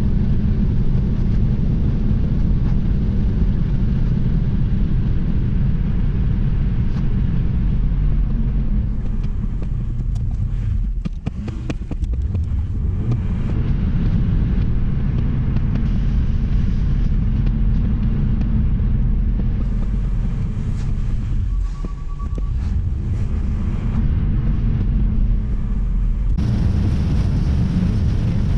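Strong storm wind buffeting the microphone: a loud, steady low rumble with a couple of brief lulls.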